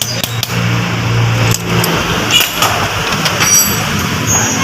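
Steady engine-like hum from a nearby motor, fading about a second and a half in, with scattered metallic clicks and clinks from hand tools on the car's electrical and starter hardware.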